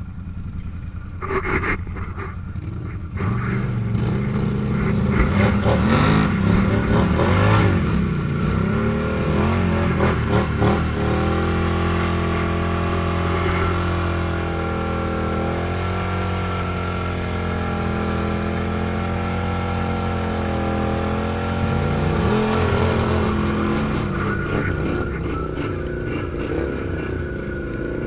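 Four-wheel-drive off-road vehicle's engine working under load, with a few knocks in the first seconds. From about three seconds in it revs louder, its pitch rising and falling, then holds steady for several seconds before shifting again near the end.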